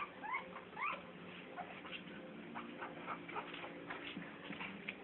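A litter of young animals squeaking over and over, with short rising squeals that are loudest in the first second and then shorter and thinner, over a steady low hum.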